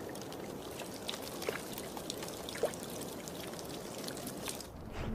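Meltwater trickling and pouring over thawing ice, with scattered drips, small clicks and plinks; the water sound drops away near the end.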